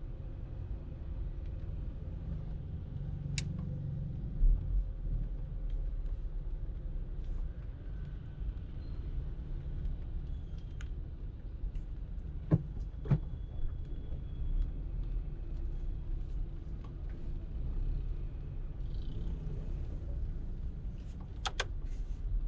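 Car driving in traffic, heard from inside the cabin: a steady low rumble of engine and tyres on the road, with a few short sharp clicks or knocks now and then.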